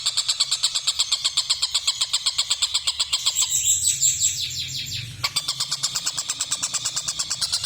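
Tengkek buta kingfisher giving its rapid cackling 'ngekek' call: a fast, even string of harsh notes, about seven a second. The string breaks briefly for a different, gliding call about three seconds in, then goes on.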